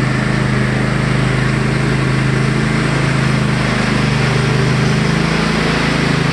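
Cub Cadet XT1 LT46 riding lawn mower's engine running steadily, starting and running properly on a newly replaced starter.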